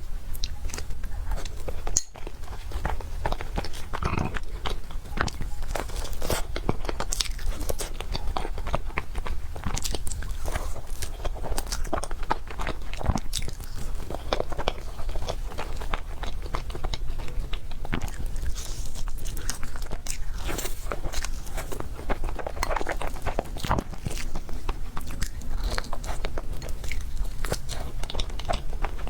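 Close-miked eating sounds of someone eating soft cake: moist chewing and biting, with a dense run of small mouth clicks over a steady low hum.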